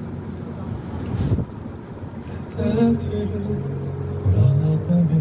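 Fireworks display: a low rumbling boom about a second in and another burst near three seconds, over a show soundtrack with pitched tones playing through loudspeakers.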